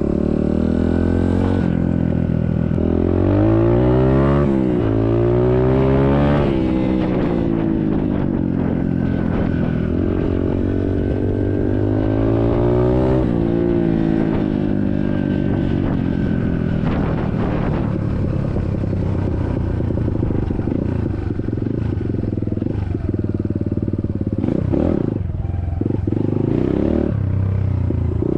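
SSR 150cc dirt bike's single-cylinder four-stroke engine under way. It revs up through the gears in the first half, its pitch climbing and dropping back at each shift, then holds a steady speed.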